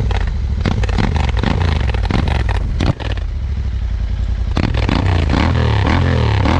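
Royal Enfield Interceptor 650's parallel-twin engine running through an AEW TE101 aftermarket exhaust, idling with a crackly note. In the second half it is revved several times, the pitch rising and falling with each blip.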